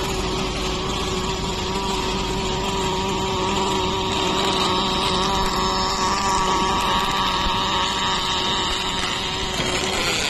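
Welding robot equipment running: a steady machine hum with several held tones under a continuous hiss, a little louder from about four seconds in.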